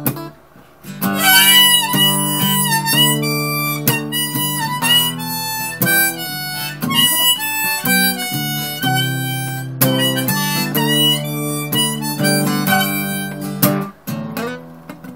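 Harmonica solo over strummed acoustic guitar chords: an instrumental break in a folk-blues song, the harmonica playing bending, wailing melody lines.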